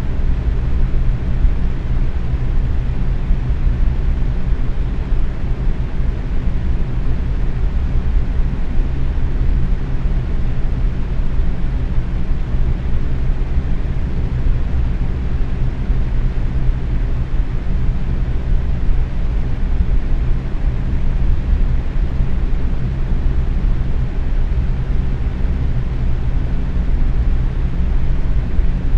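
Box fan running steadily at medium speed: a constant low rushing of air with a faint steady hum from the motor.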